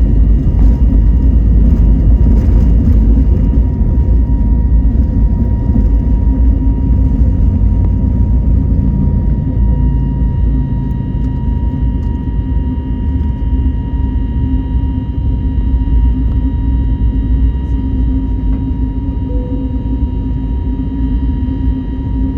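Airbus A321neo jet engines and airflow heard from inside the passenger cabin: a loud, steady low rumble with a few faint steady whining tones on top, growing gradually quieter through the second half.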